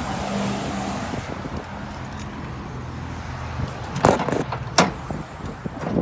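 Clatter of a pickup's hood being opened: two sharp metallic clunks about four and five seconds in, over rustling handling noise and a steady low hum.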